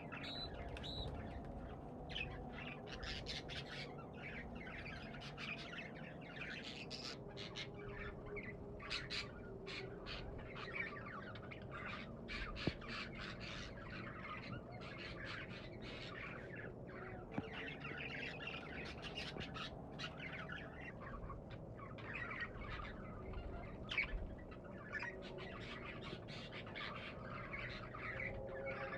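Pet budgerigars chirping and chattering continuously, a dense flock of overlapping calls, with a few sharp clicks.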